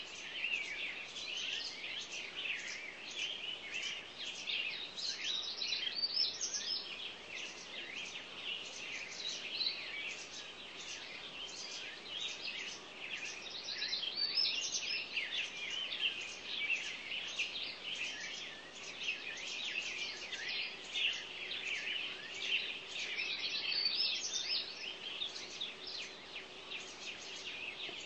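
Many small birds chirping and calling at once, a dense continuous chatter of short, high, overlapping chirps and trills.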